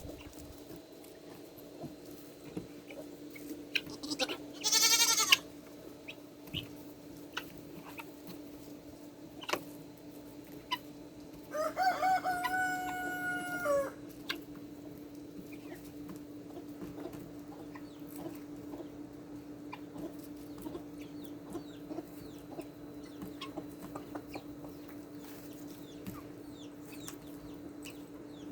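Chickens clucking, with a rooster crowing once about twelve seconds in in a call of about two seconds that rises and then holds its pitch. About five seconds in there is a brief loud squawk-like call, all over a steady low hum.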